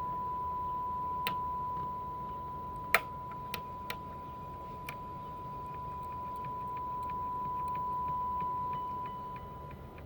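A steady, pure test tone at about 1 kHz hums on during FM radio alignment. It is the modulation tone of the test signal, dipping slightly near the end. A few light clicks from handling the test gear are heard over it, the loudest about three seconds in.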